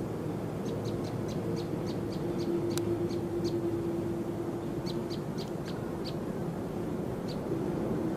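A small bird calling in quick runs of short, sharp chirps, several to a run, over a steady low drone with a held hum.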